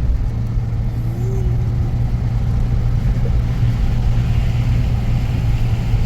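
Motor vehicle running with a steady low drone.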